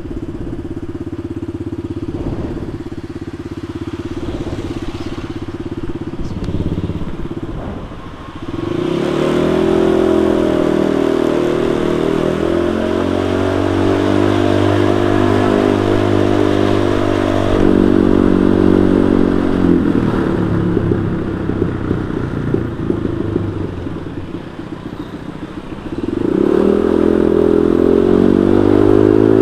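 Honda Vario 125 scooter's single-cylinder engine running through a cheap aftermarket racing exhaust while riding. It runs steadily, opens up about eight seconds in and holds a higher note, eases off for a while, then picks up again near the end.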